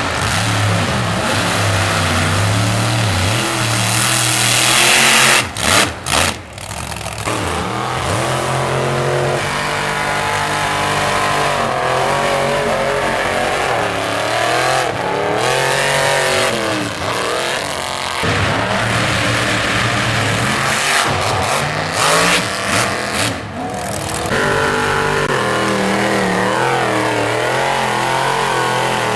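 Mud truck's engine revving hard, its pitch sweeping up and down again and again as the throttle is worked.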